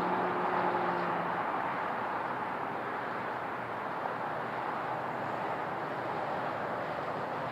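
Jet engine noise from a Boeing 787-9 airliner: a steady rushing roar that eases slightly. A faint low hum fades out about a second in.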